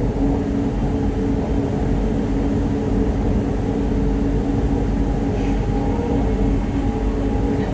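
Jakarta LRT light-rail train running between stations, heard from inside the car: a steady low rumble with several steady humming tones.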